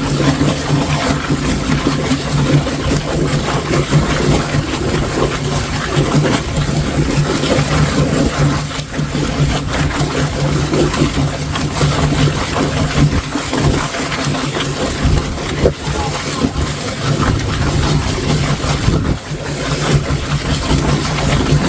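Chicken plucker running with a steady motor hum and a constant hiss of water spray while it strips the feathers from a scalded bird.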